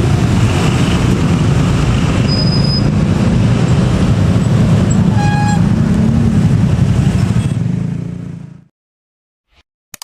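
Diesel-hauled passenger train accelerating past: the locomotive's engine working hard under a steady, loud rumble of wheels on rail. A brief high tone sounds about five seconds in, and the sound fades and cuts off about eight and a half seconds in.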